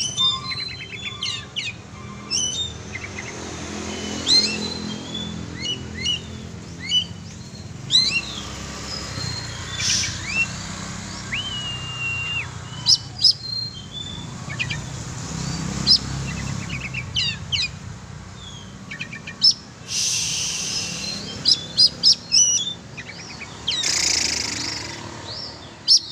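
Oriental magpie-robin (kacer) singing a fast, varied run of sharp chirps and whistles, with one long held whistle about halfway through. Two short bursts of hiss come late on.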